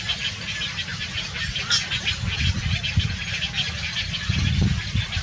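Birds calling in a dense run of short, rapid chirps, over a steady low rumble.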